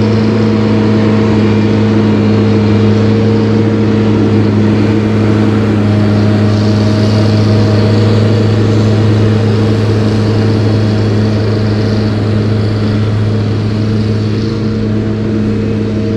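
A motor running steadily with a constant low hum, easing off slightly near the end.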